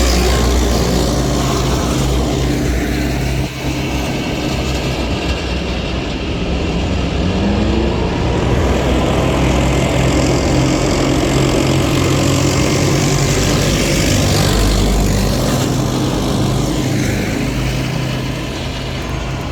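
A column of K55 self-propelled howitzers driving past, their heavy two-stroke Detroit Diesel V8 engines running loud and steady. The sound swells and eases as each vehicle goes by.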